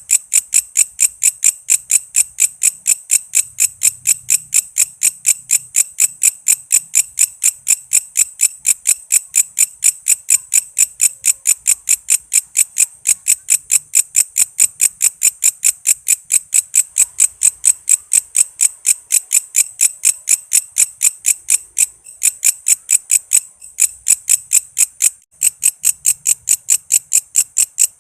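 Walang kece, a singing insect, calling in a steady train of sharp, high-pitched chirps, about four a second, with a couple of brief pauses near the end.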